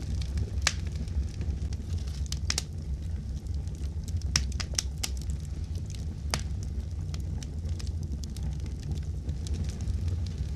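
Fireplace fire crackling: irregular sharp snaps and pops over a steady low rumble.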